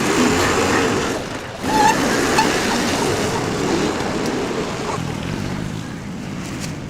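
Busy market hubbub: a dense wash of noise with scattered, indistinct voices. It eases off gradually toward the end.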